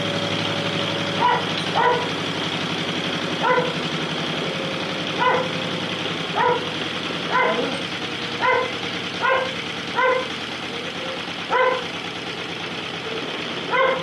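A dog barks a dozen or so times at irregular intervals, about once a second, over the steady running of a vintage Lister Petter magneto-ignition stationary engine.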